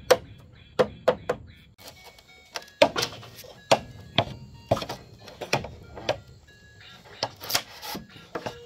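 Wood being struck: about a dozen sharp knocks at an uneven pace.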